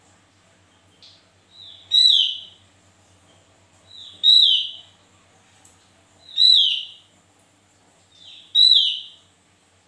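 Caged songbird calling: four loud calls about two seconds apart, each a short note that falls in pitch, led in by a fainter short note.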